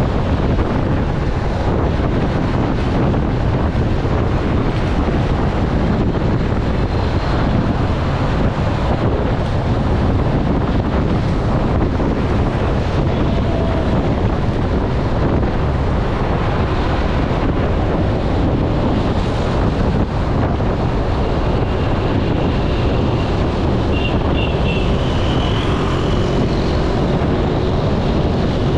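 Loud, steady wind rumble buffeting the microphone, strongest in the low end, with a few faint short high tones near the end.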